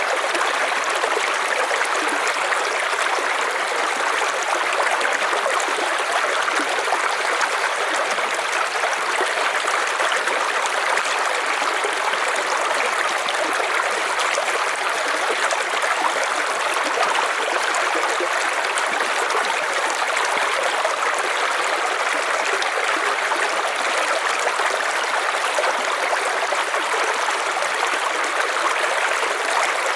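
River water flowing over stones: a steady, even rush of running water.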